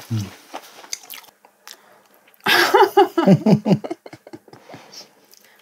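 Close-miked chewing and small wet mouth clicks of people eating juicy tangerine segments, with a short burst of laughing voices about two and a half seconds in.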